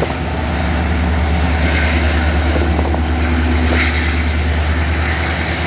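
Diesel-electric freight locomotives of a local train running past as it shoves backwards, a steady low throbbing engine drone that grows slightly louder.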